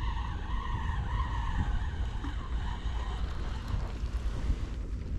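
Wind rumbling on the microphone over open water, with a wavering high whine that fades out over the first couple of seconds.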